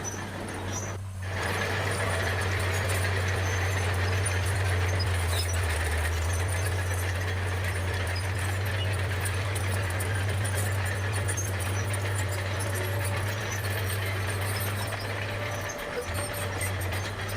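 Bulldozer running with a steady low engine drone and a thin high squeal over it.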